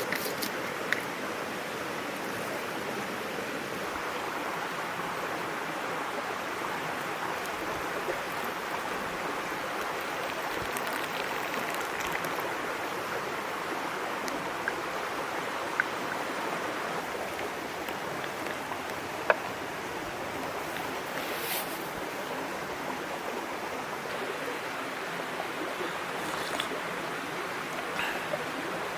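A small mountain stream babbling steadily over rocks, with a few faint sharp clicks scattered through it.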